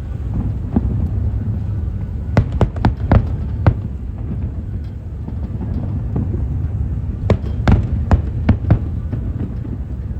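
Fireworks bursting: a quick run of sharp bangs about two to four seconds in, and another cluster from about seven to nine seconds, over a steady low rumble.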